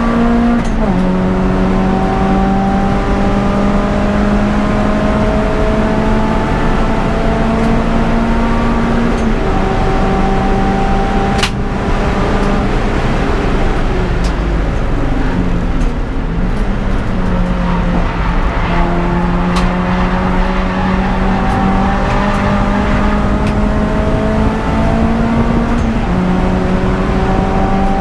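Peugeot 206 GTI's four-cylinder engine running hard under racing load. The revs climb slowly through each gear and drop sharply at upshifts near the start, about nine seconds in and near the end. Around the middle the revs briefly fall and waver as the car slows, then build again.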